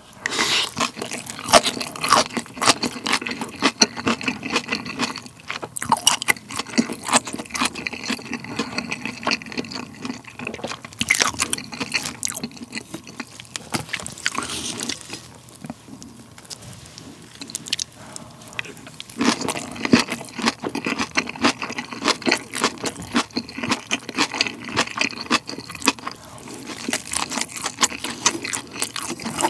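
Close-miked chewing of a mouthful of chicken rice and napa-cabbage kimchi, wet and crunchy. A spoon scrapes rice across a plate now and then. The chewing eases off for a few seconds midway, then picks up again.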